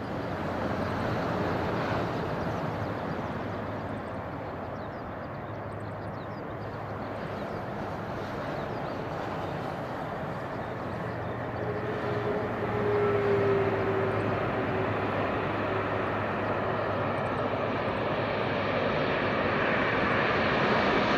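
Boeing 787 airliner approaching to land, its jet engines a steady rushing noise that grows louder toward the end, with a brief whine about halfway through.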